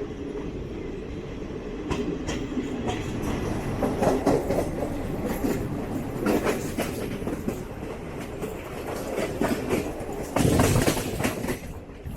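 A non-AC double-decker passenger coach running at speed: a steady rumble with the wheels clicking and knocking over rail joints. A louder, heavier clatter comes about ten seconds in.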